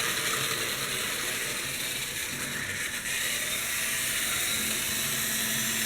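Antique Märklin electric model train running around its track, a steady hissing whir with no breaks.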